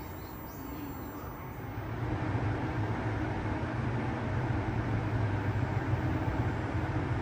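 A train running through a station: a low, steady rumble that grows louder about two seconds in and then holds.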